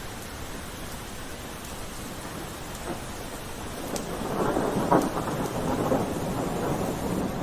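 Steady rain falling, with a low rumble that swells up about halfway through, is loudest shortly after, then slowly eases.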